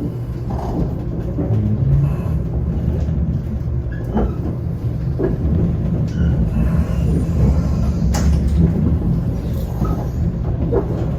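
Shinkansen train running: a steady low rumble with a few short knocks scattered through it.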